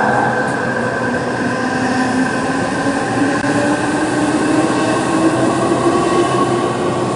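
Electric train running, with a motor tone that rises slowly and steadily as it picks up speed.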